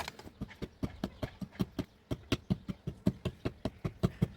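Rapid, light hammer taps on metal, a steady run of about four or five sharp strikes a second.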